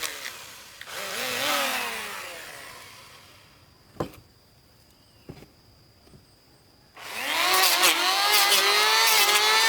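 A power tool's motor winding down in pitch, briefly speeding up and winding down again, then near quiet with a single click. About seven seconds in, the motor starts up again, rising quickly in pitch and then running steadily at high speed.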